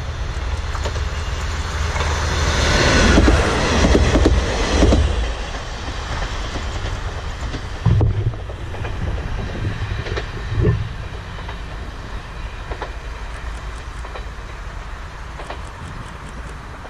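A Kanto Railway diesel railcar approaching and passing close by, at its loudest about three to five seconds in and then fading into the distance. Two short low thumps come about eight and eleven seconds in.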